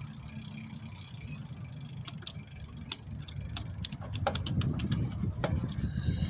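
Bicycle being ridden: scattered clicks and rattles from the bike over a low rumble of tyres and wind on the microphone. The rumble grows louder in the last couple of seconds.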